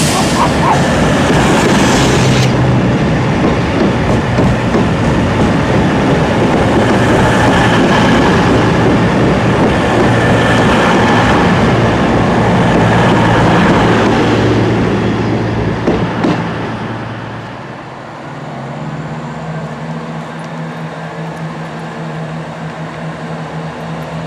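A train running through the station, its noise dying away about 17 seconds in, leaving a steady low engine hum.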